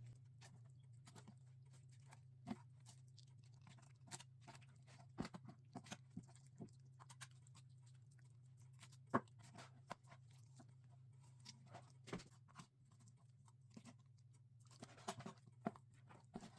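Faint, scattered clicks and crunches of a knife cutting and scraping raw chicken breast off the bone, with the meat tearing away.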